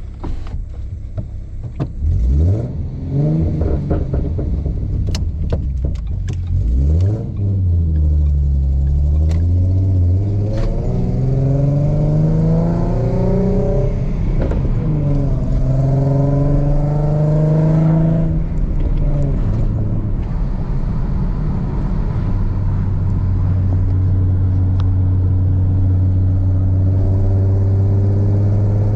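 Ford Mustang RTR V6 with a Roush exhaust, driven with a six-speed manual: two quick rev rises in the first seven seconds, then the engine pulls with rising pitch. There is a gearshift drop about halfway, then another pull. It eases off and cruises steadily for the last third.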